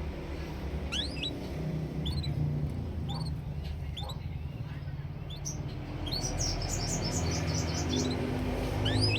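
Small songbird chirping: scattered short, rising chirps, then a quick run of chirps about six to seven seconds in, over a low steady hum.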